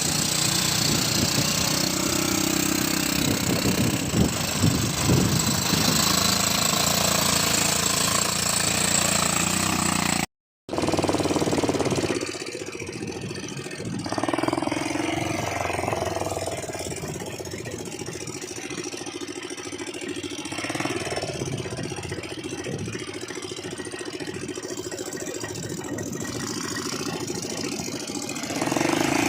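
ATV engine running steadily as the quad is ridden. About ten seconds in there is a short gap, after which the engine is quieter for most of the rest, then louder again near the end.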